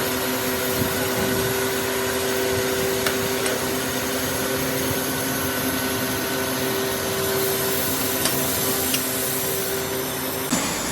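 Workshop machinery running steadily with a constant hum and a few light clicks; the sound changes suddenly near the end.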